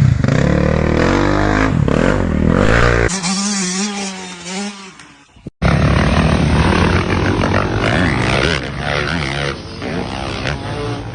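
Dirt bike engines revving up and down. About three seconds in, one bike's sound wavers and fades. There is an abrupt cut about five and a half seconds in, after which another bike runs and revs.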